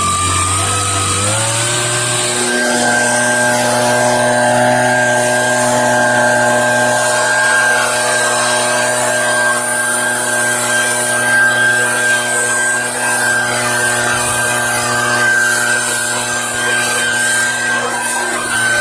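Leaf blower throttled up about a second in, then running steadily at high speed, blowing pine straw out of roof gutters.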